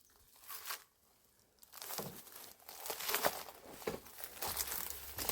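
Irregular crunching and rustling of dry debris, starting about two seconds in and growing denser, like footsteps moving through rubble and brush.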